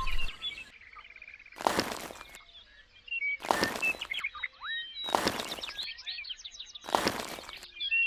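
Small birds chirping repeatedly, with a short burst of noise about every second and three quarters, four times.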